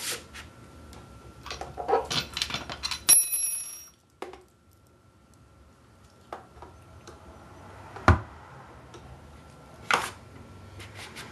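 Ice luge mold side pieces being slid back on and handled: scraping and clicking, with a sharp clink that rings briefly like a small bell about three seconds in, then a quiet pause and two single knocks.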